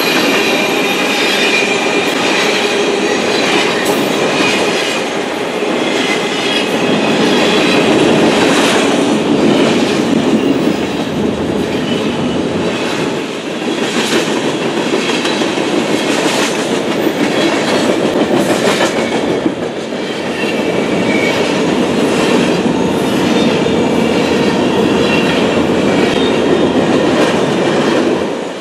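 Manifest freight train's tank cars and covered hoppers rolling past at close range: steel wheels clicking over rail joints in an irregular rhythm, over a steady rumble, with a thin high-pitched wheel squeal now and then.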